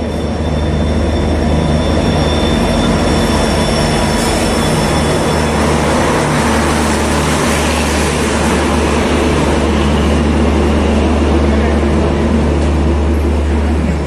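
WDP4 diesel-electric locomotive running as it pulls into the platform with a thin high whine in the first few seconds, followed by its coaches rolling past with a steady low drone and rumble.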